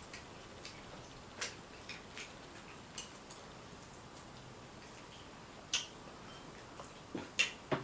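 Eating sounds from a seafood boil eaten by hand: sparse, sharp little clicks and cracks a second or two apart, with a few close together near the end.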